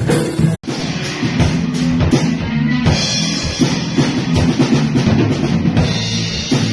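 A band jamming, with guitar and drums playing together without singing. About half a second in, the sound drops out for an instant and picks up again, as at a cut in the recording.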